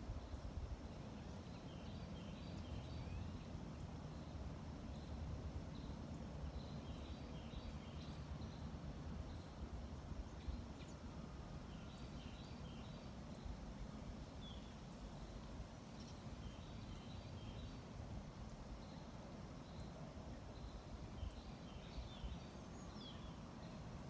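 Birds chirping in short runs of high notes every few seconds over a faint, steady low rumble.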